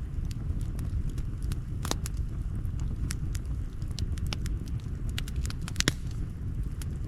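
Campfire crackling: irregular sharp pops and snaps of burning wood, the loudest about two seconds and six seconds in, over a steady low background noise.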